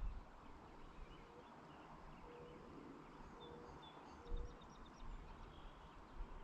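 Faint rural outdoor ambience with scattered distant bird chirps. A short low note repeats four times, about once a second, and there are occasional low bumps under a steady background hiss.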